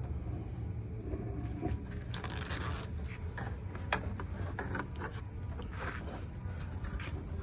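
Hands working a freshly stuck adhesive LED light strip on a pickup tailgate: scraping and rustling with scattered light clicks and knocks, the loudest scrape about two seconds in, over a steady low hum.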